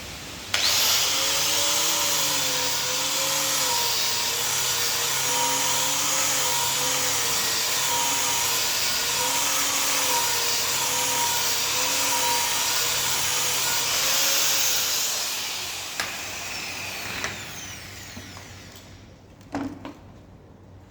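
Angle grinder grinding steel, most likely the weld on a 3G vertical test plate, with a loud grinding hiss over a motor whine whose pitch wavers as the disc is pressed on and eased off. It starts about half a second in, runs about 15 seconds, then winds down as the grinder is switched off. A short knock follows near the end.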